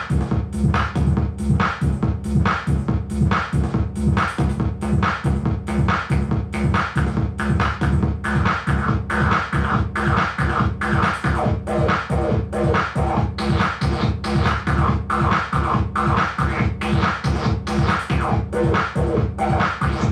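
Industrial noise music from a drum machine patched into a no-input mixer: a distorted beat in a steady, fast pulse over a heavy low rumble. A harsh, noisy mid-range layer grows stronger about eight seconds in.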